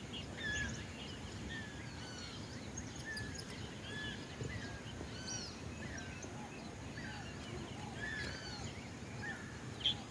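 Several birds chirping and calling at once, a dense mix of short whistled notes from different birds, over a steady low rumble.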